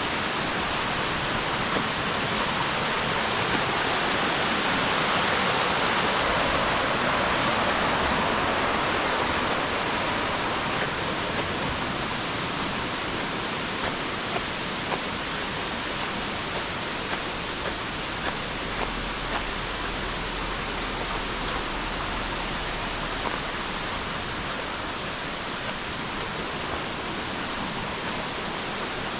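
Waterfall water rushing in a steady, even roar. A faint, short, high chirp repeats several times in the first half.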